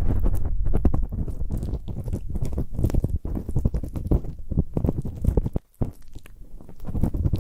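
Close-miked ear-cleaning ASMR: an ear-cleaning tool scraping and rubbing at a microphone's ear in quick, irregular strokes, with a brief pause a little over halfway through.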